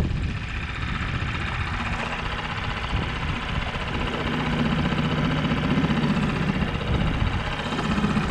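Small outboard motor running steadily on a boat, its engine note a little louder and clearer from about four seconds in.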